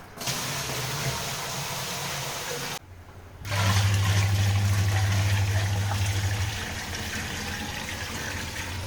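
Water poured from a bucket into the plastic tub of a compact washing machine, a steady splashing rush. It breaks off briefly about three seconds in and resumes louder, with a low hum under it for the next few seconds.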